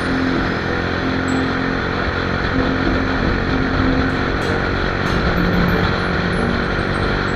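Motorcycle engine running steadily while riding, under heavy wind rush on the microphone; the engine note drops a little about five seconds in.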